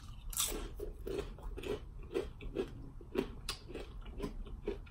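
Mouth chewing a crunchy tortilla chip dipped in cheese sauce: a quick, irregular run of crisp crunches.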